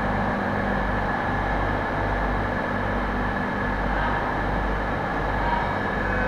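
Steady machinery hum of a stationary passenger train, heard inside the car: a low drone with a faint higher whine over an even hiss.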